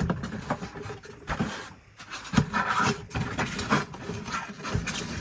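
Irregular knocks, clicks and rubbing as a vintage toy and its radio-control transmitter are handled.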